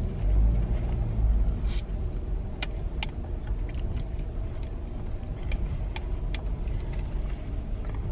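Low rumble of a car heard from inside the cabin, loudest in the first second or so, with scattered small clicks and taps over it.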